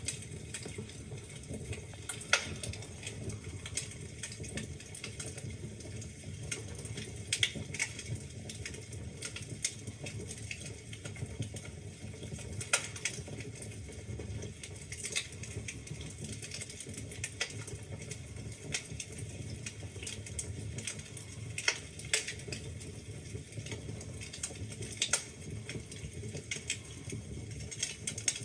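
Wood fire in a fireplace crackling: a steady low rumble of the burning logs with frequent small pops and a few louder snaps.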